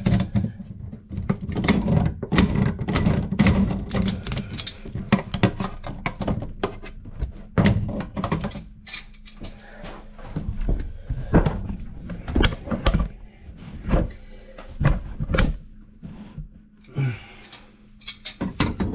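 Irregular knocks and clatter of hands and tools working at a washing machine supply box, over a steady low hum.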